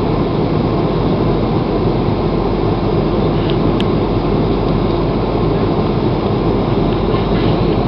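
Steady engine and airflow noise inside an airliner cabin, a loud, even low rumble that holds level throughout.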